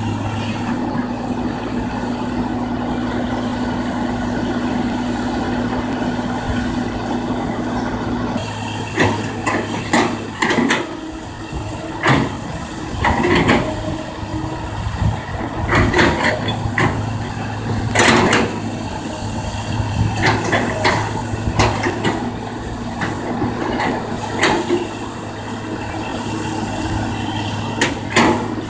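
Kobelco hydraulic excavator's diesel engine running steadily; from about eight seconds in, a string of irregular knocks and clanks from the digging joins it.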